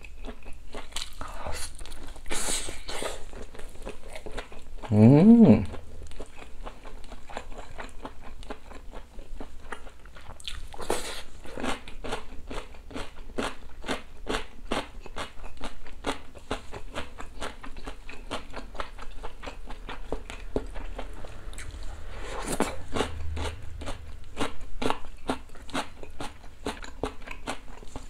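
A person chewing and crunching food, picked up close by a lapel microphone, in a steady rhythm of about two or three crunchy bites a second. About five seconds in there is a brief closed-mouth 'mm' hum that rises in pitch.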